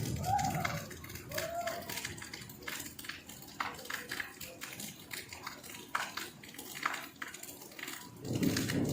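Irregular sharp taps and clicks, with two short arching calls in the first two seconds.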